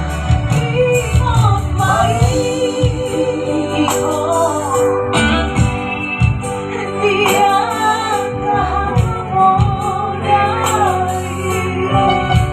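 A singer performing a Batak-language song, the voice wavering with vibrato over backing music with steady sustained bass notes.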